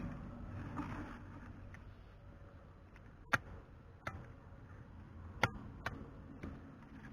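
A handful of short, sharp knocks at irregular intervals, about five in the second half, over a low steady hum.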